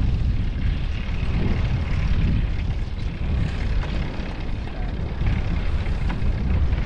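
Wind buffeting a GoPro's microphone while riding a bicycle: a steady, loud, low rumble.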